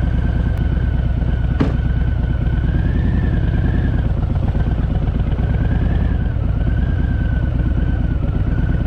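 Harley-Davidson Fat Boy's air-cooled V-twin engine running steadily while riding, with a thin high whistle wavering slowly over it and one short click about a second and a half in.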